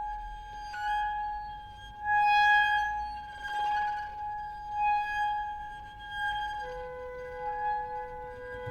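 Contemporary chamber music for flute, clarinet, violin, double bass and piano: a long, high held note that swells and fades. A second, lower held note comes in about two-thirds of the way through.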